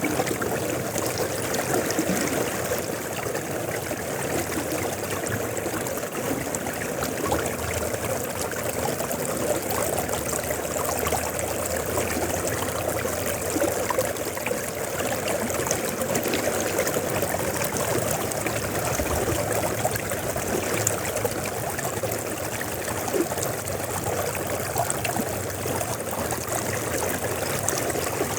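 River water flowing steadily, a continuous rushing and splashing with no break.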